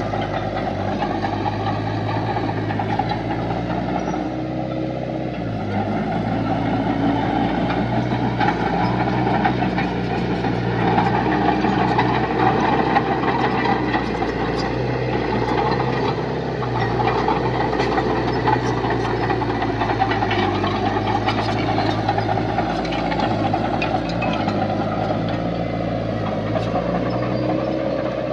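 Heavy diesel engine of earth-moving machinery running under load, its pitch rising and falling as the engine speed changes, with scattered sharp clanks.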